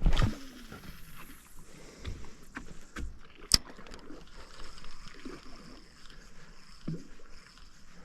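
Sounds aboard a small wooden boat at sea: a loud thump at the start, then scattered knocks and clicks over low water noise, with one sharp click about three and a half seconds in.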